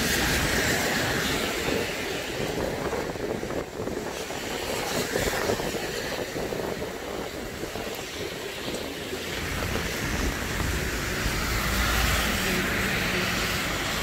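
Steady hiss of rain and wet street noise, with a low rumble that swells and fades about ten seconds in.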